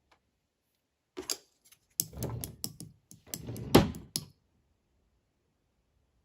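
A run of sharp clicks, knocks and clattering from hard objects being handled, lasting about three seconds, with the loudest knock near the end.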